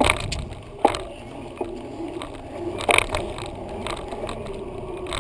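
Bicycle riding heard from a bike-mounted GoPro: a steady low rumble of tyres and wind, with sharp knocks and rattles of the bike and mount at the start, about a second in, and about three seconds in.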